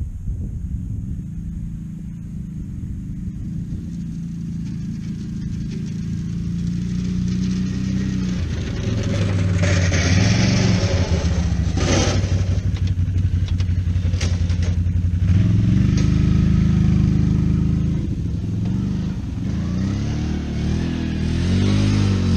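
Four-wheeler (ATV) engine running, its pitch rising and falling several times as it is revved or driven. A single sharp crack sounds about twelve seconds in.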